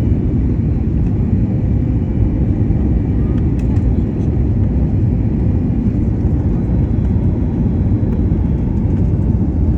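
Steady low rumble of an airliner landing, even throughout, with faint steady engine tones above it.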